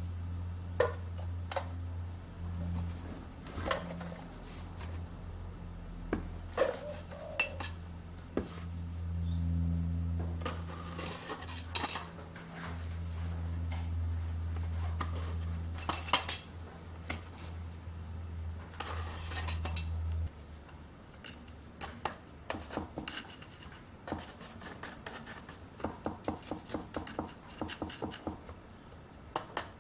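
Metal clinking and scraping, irregular knocks of metal tools and containers being handled while a sand mould is made up, over a steady low hum that cuts off about two-thirds of the way through. A run of quick light ticks comes near the end.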